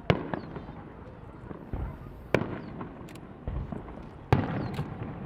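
Aerial fireworks shells bursting: three sharp bangs about two seconds apart, with smaller pops between them over a continuous low rumble from the display.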